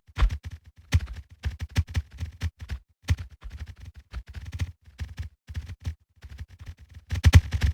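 Rapid, irregular clicking with soft low knocks, several a second, broken by brief pauses.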